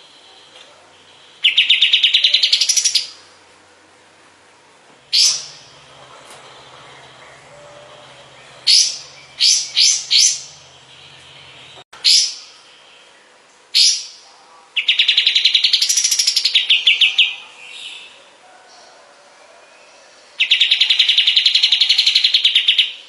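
Kapas tembak songbird singing: fast trills of rapidly repeated high notes, each lasting about two seconds, three times, with single short, sharp, downward-swept notes between them.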